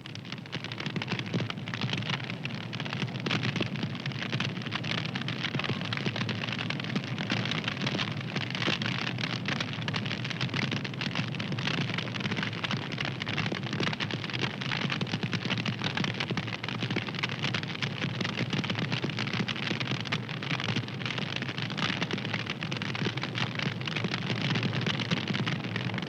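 Fire crackling steadily: a dense, continuous stream of small snaps and pops over a hiss.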